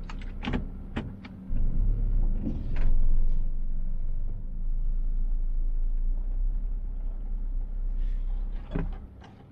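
A few clicks, then about a second and a half in a car engine starts and runs with a steady low rumble. Near the end there is another click and the sound fades away.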